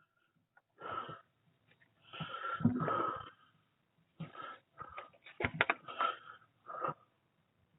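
A person breathing hard and straining in irregular bursts of breath, with a few short clicks about halfway through.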